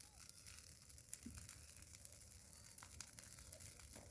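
Bonfire of dry araucaria twigs crackling faintly, with scattered sharp pops over a soft hiss while it is still smoking and just catching.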